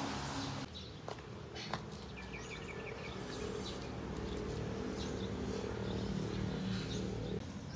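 Outdoor ambience: a steady low hum, with a bird chirping a quick run of short notes a little over two seconds in.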